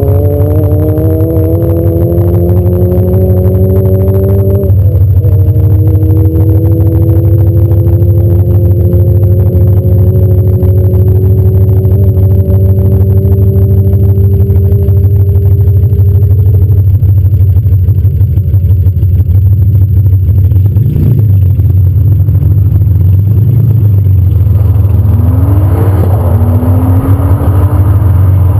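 Porsche 911 flat-six engine idling with a steady low rumble. Near the end the revs rise a few times as the car creeps forward.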